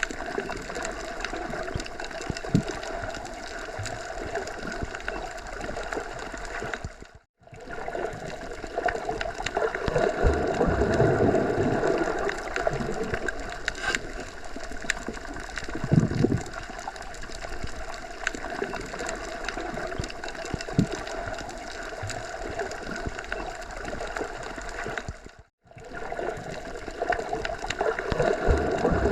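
Continuous outdoor nature ambience: a steady rushing noise with many small ticks through it, dropping out briefly twice.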